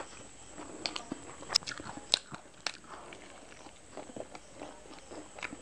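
A person chewing a mouthful of egg roll into a close clip-on microphone, with sharp mouth clicks and smacks that come thickest between about one and three seconds in.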